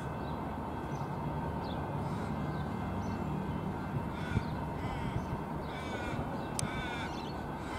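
Metro Trains Melbourne X'Trapolis electric train approaching slowly with a steady low rumble, while birds call over it several times in short, crow-like calls.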